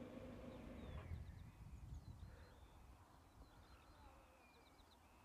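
Faint birdsong of short high chirps and whistles in a quiet countryside. A low steady hum fades out about a second in.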